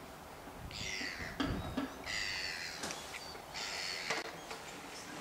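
A bird giving three harsh, drawn-out calls about a second and a half apart, with a few light knocks in between.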